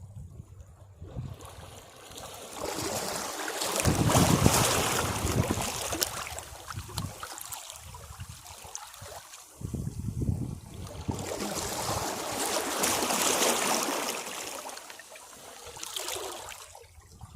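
Sea waves breaking against rocks: two large surges of crashing, hissing water, the first and loudest about four seconds in and the second from about ten seconds, then a smaller one near the end, with water washing and draining off the rocks in between.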